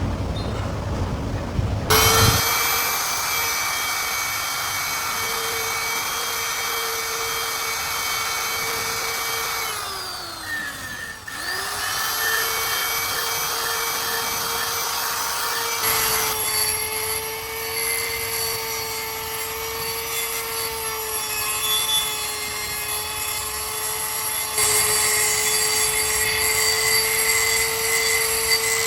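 An electric power tool motor starts with a steady high whine, winds down and stops about ten seconds in, then starts up again and keeps running. The sound grows rougher about halfway through.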